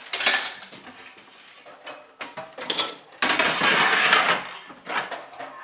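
Plates and cutlery clinking and clattering as dishes are cleared, with a louder stretch of rattling and scraping about three seconds in.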